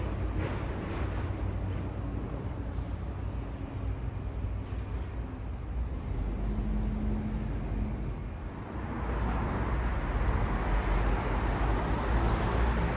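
City road traffic: a steady low rumble of vehicles, growing louder with a rush of tyre and engine noise about nine seconds in as a vehicle comes closer.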